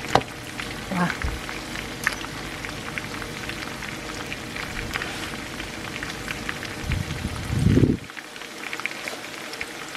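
Lemongrass pork chops frying in hot oil in a pan, a steady sizzle full of crackling spatters. There is a sharp click right at the start and a brief low rumble about seven seconds in.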